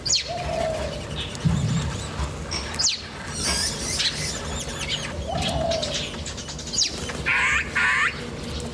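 Several birds chirping and calling: many short, sharp high chirps, a lower falling call that repeats about every five seconds, and two buzzy calls near the end.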